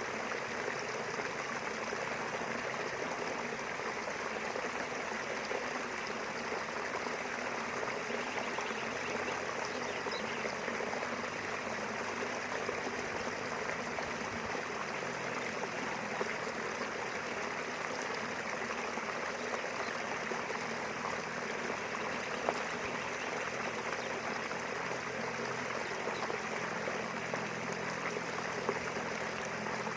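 A small river flowing steadily, its running water making an even rushing sound.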